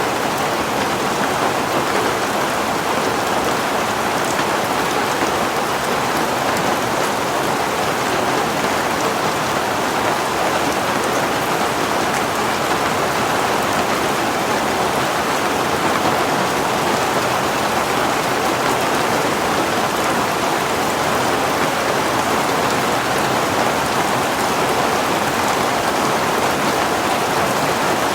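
Heavy rain falling steadily, with the odd faint drop tick.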